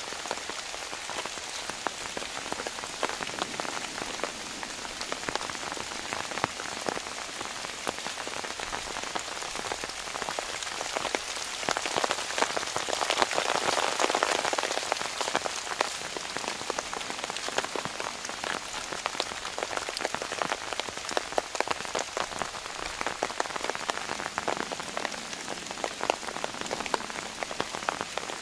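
Monsoon rain falling on plantation leaves and wet ground: a steady wash of rain with many separate drop hits, growing louder for a few seconds around the middle.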